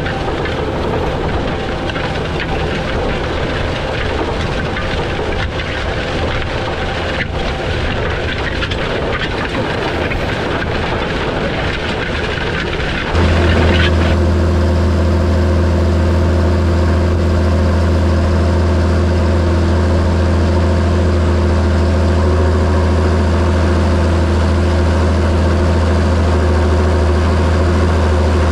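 John Deere 7730 tractor's six-cylinder diesel engine running. About 13 seconds in the sound changes abruptly from a broad, rough noise to a louder, steady low hum.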